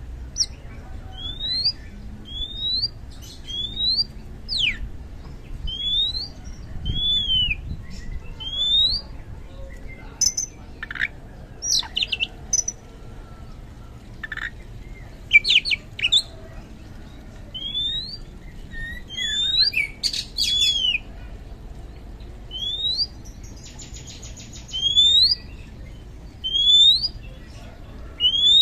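Oriental magpie-robin singing a run of short rising whistled notes, about one a second, mixed with sharp falling notes and a brief buzzy rattle about two-thirds of the way through.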